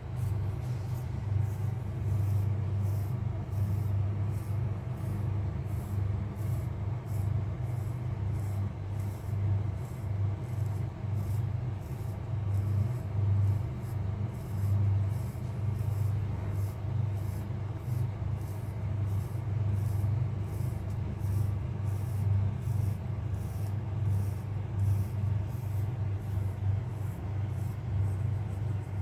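Fingers scratching through a cat's fur in quick repeated strokes, about two a second, over a steady low rumble.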